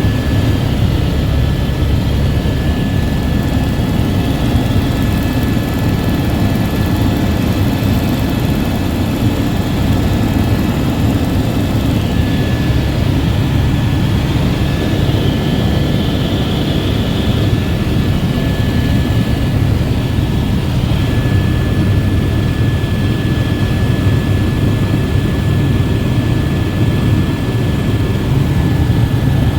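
Helicopter engine and rotor heard as a loud, steady low drone with a thin high whine, as inside the cabin in flight.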